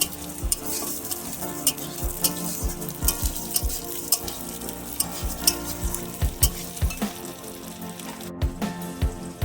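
Food sizzling as it fries in a pan, with frequent sharp clacks and knocks from stirring. Background music plays steadily underneath.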